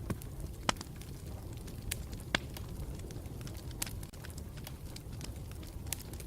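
Campfire burning with a steady low rumble and irregular sharp crackles and pops of burning wood, two of them louder than the rest.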